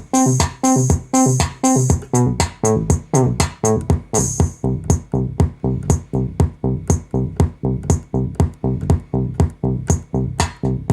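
Korg Kaossilator handheld synthesizer playing a fast repeating pattern of short plucked-sounding notes, about three to four a second. A hissy, cymbal-like top layer drops out about four and a half seconds in, leaving the plucked notes on their own.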